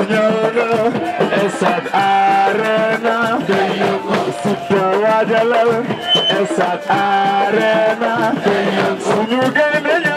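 Music: voices singing a chant with drum accompaniment over a steady low note.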